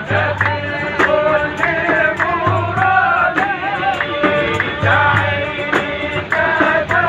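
Young men singing an Arabic song together, their voices gliding through a melody over a steady percussive beat.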